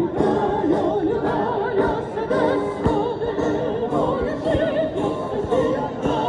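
Music: an operatic voice singing with a wide vibrato over orchestral accompaniment.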